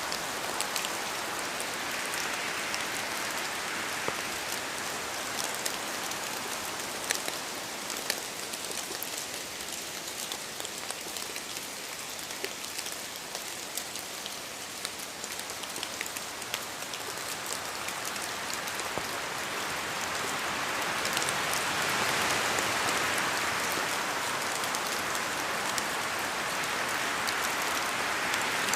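Steady rain falling, a continuous hiss with individual drops ticking through it, swelling louder about two-thirds of the way in.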